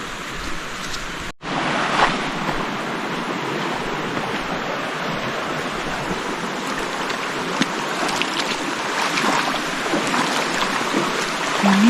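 Steady rush of flowing stream water, with a brief cut-out about a second and a half in, after which the rush is a little louder.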